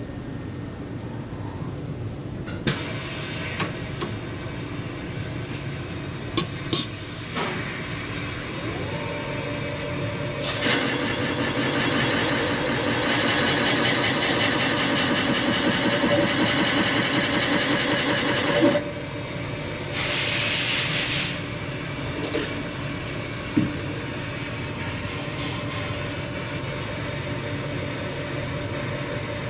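Machine-shop work on a cylinder head: a steady shop hum with a few sharp knocks, then a machine runs loud for about eight seconds and stops suddenly, followed by a short burst of hiss.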